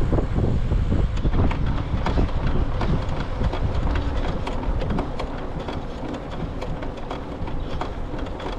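Riding noise from a bicycle on a paved path: wind buffeting the microphone over a low rumble, with frequent small clicks and rattles. It gets quieter after about five seconds.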